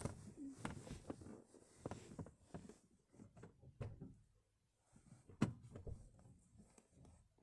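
Scattered light knocks and clicks, with one sharper click about five and a half seconds in.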